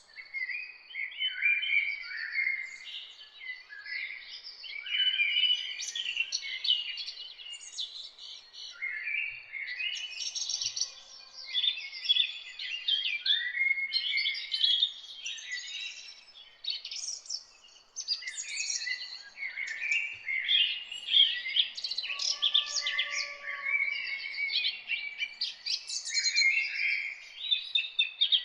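Several songbirds singing and chirping together: a dense chorus of overlapping high chirps and trills, with short lulls about a third and two thirds of the way through.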